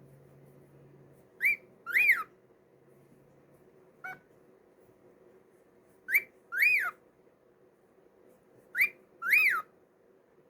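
Pet cockatiel whistling a repeated two-note phrase, a short rising note followed by a longer note that rises and falls, three times about every three and a half seconds.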